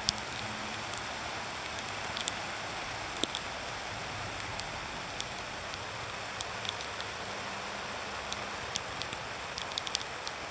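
Heavy wet sleet falling: a steady hiss with scattered sharp ticks of pellets striking nearby surfaces.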